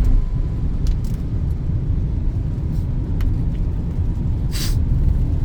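A Peugeot 2008 driving, heard from inside the cabin: a steady low engine and road rumble. There are a few light clicks, and a brief hiss about four and a half seconds in.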